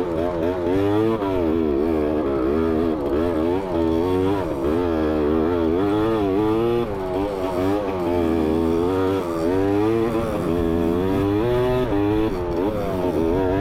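Dirt bike engine running as it is ridden, its pitch rising and falling over and over as the throttle is opened and closed.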